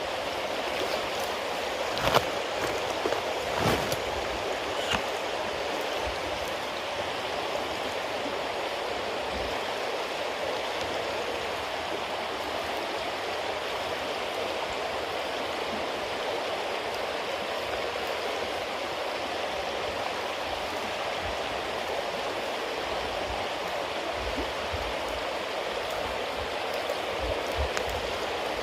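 Bonfire of damp firewood and cedar leaves burning with a steady crackling hiss, with a few sharp pops in the first few seconds.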